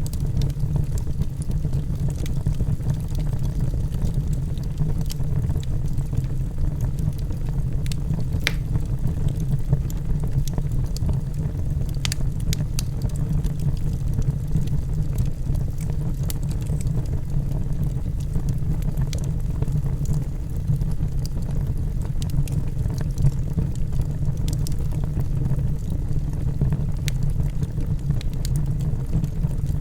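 Log fire in a fireplace burning with a steady low rumble, broken by scattered sharp crackles and pops from the logs.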